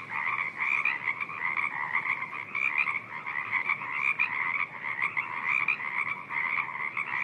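A dense chorus of Pacific chorus frogs calling in a spring wetland, with many overlapping calls that blend into one continuous pulsing din.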